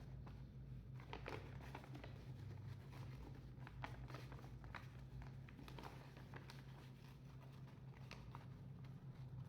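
Faint, scattered rustles and light taps of paper being handled and creased, over a steady low hum.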